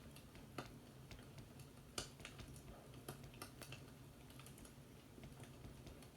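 Faint fireplace crackling: irregular sharp pops and snaps, a few a second, over a low steady rumble.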